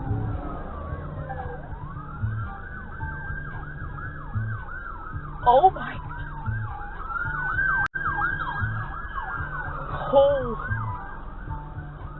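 Emergency vehicle siren sweeping rapidly up and down in a yelp, several sweeps a second, slowing to a longer wail about midway before speeding up again.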